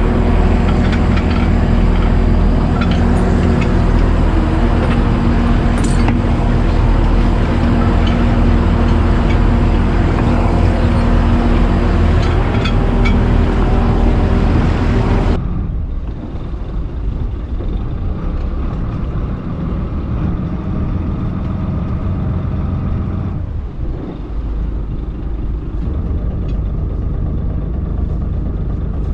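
Fishing boat's engine running steadily, with scattered light knocks and clicks. About halfway through, the sound changes abruptly to a quieter, duller engine drone.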